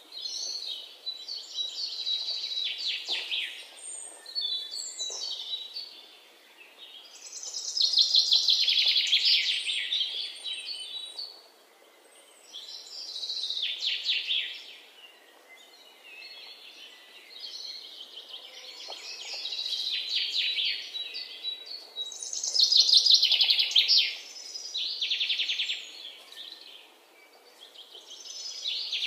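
Small birds singing: chirping, trilling phrases that come in swells every few seconds, some falling in pitch, with quieter gaps between.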